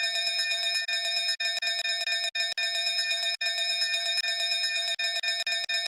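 A bell ringing continuously, its rapid strikes blending into one steady, fluttering ring, like an alarm bell.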